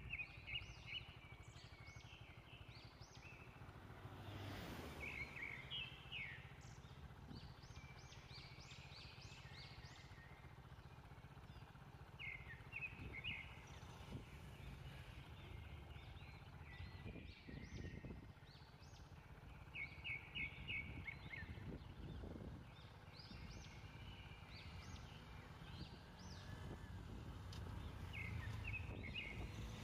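Birds calling in short runs of quick chirps every few seconds, over a faint low rumble.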